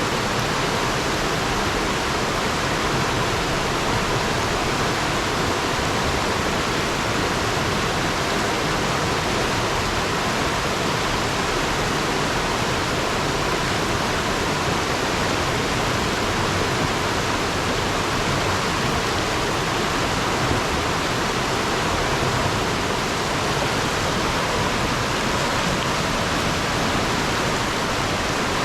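Fast river water rushing over and around rocks: a steady, unbroken rush.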